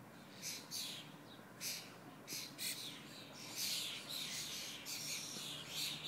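Small birds calling: short, high chirps repeating, coming more thickly in the second half.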